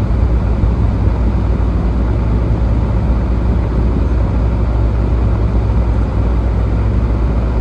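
Steady road and engine noise inside a moving car's cabin at freeway speed, a constant low rumble.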